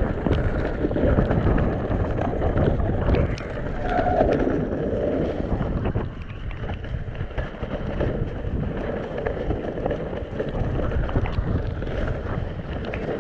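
Mountain bike descending a wet, muddy trail: wind buffeting the rider's microphone over the rattle of the bike on rough ground, with scattered short knocks. It eases a little about halfway through.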